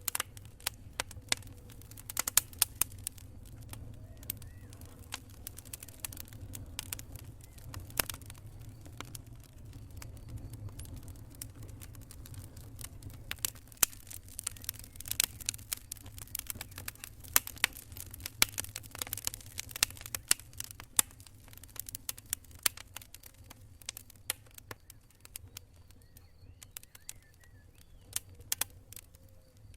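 Wood campfire crackling, with frequent sharp pops and snaps at irregular moments over a steady low rumble.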